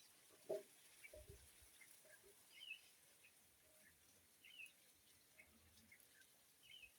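Faint bird calls in woodland: short high chirps recurring every couple of seconds over quiet background. A sharp tap about half a second in and a low thump just after one second stand out.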